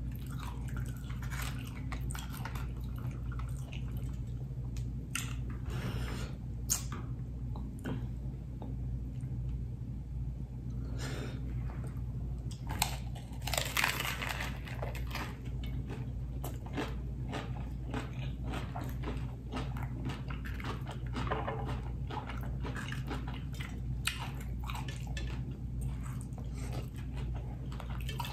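Close-up crunching and chewing of a hard-shell taco, with one louder crunchy bite about halfway through. Scattered small clicks and crackles of fingers handling the food come between the bites, over a steady low hum.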